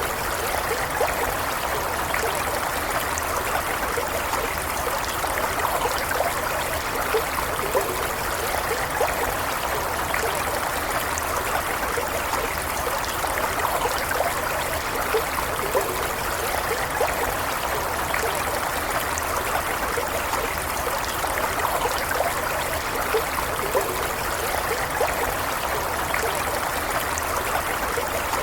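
Stream water running steadily, a constant rushing with small trickling and bubbling splashes.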